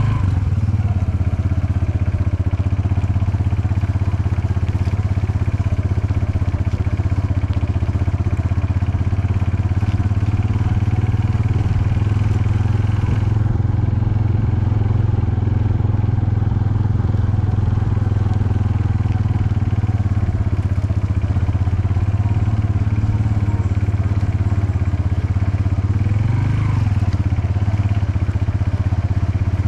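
Vehicle engine running at a steady speed while driving, a loud, even low drone with a slight rise in pitch near the end.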